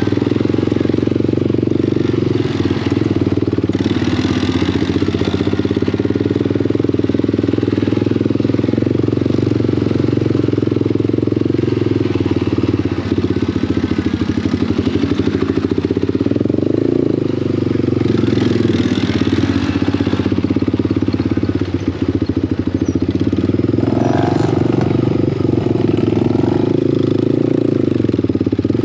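Small off-road vehicle engine running steadily, its pitch shifting slightly now and then.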